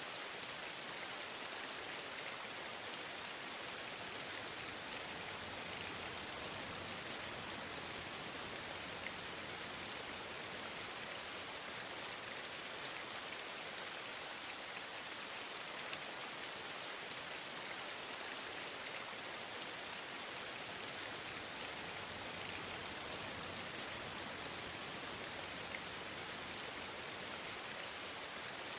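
Steady rain falling, a constant even hiss with a fine patter of individual drops.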